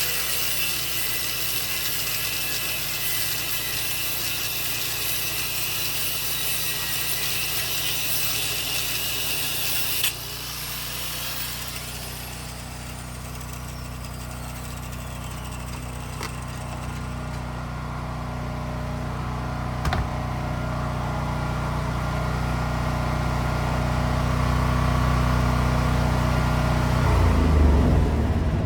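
A steady, high-pitched mechanical whir that cuts off suddenly about ten seconds in. A vehicle engine's low hum follows and grows steadily louder toward the end.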